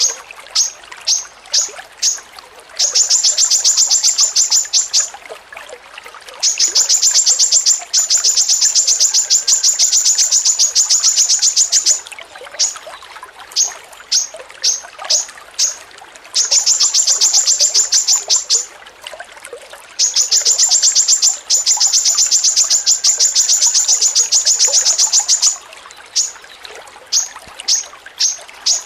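A songbird repeating one sharp, high note in rapid trains of about ten notes a second, each train lasting several seconds, with single notes spaced out between the trains.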